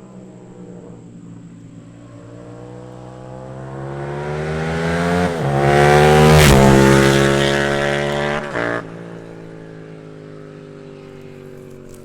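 Yamaha FZ-07 (MT-07) parallel-twin with an aftermarket exhaust accelerating past: the engine note climbs in pitch with quick drops at gear changes, and is loudest just past the middle. It then falls in pitch and fades as the bike moves away.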